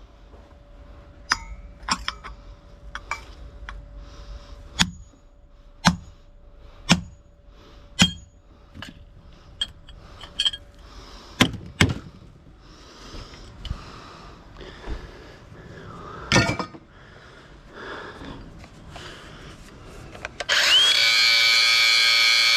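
Scrap parts being handled and dropped: a series of sharp clinks and knocks, roughly one a second, during teardown and sorting. Near the end a power drill starts, rising quickly to speed and then running steadily, much louder than the knocks.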